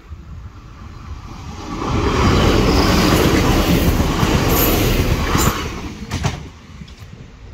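Northern Ireland Railways diesel multiple unit passing close by over a level crossing. A loud rush of wheel and rail noise builds about two seconds in, holds for about three seconds and then dies away, with a few sharp clicks near the end.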